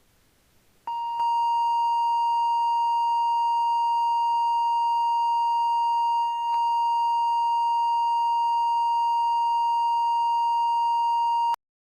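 Electronically generated Solfeggio frequency tone: one steady high pitch a little below 1 kHz, held unchanged for about ten seconds. It starts about a second in, dips briefly just past the middle, and cuts off suddenly just before the end.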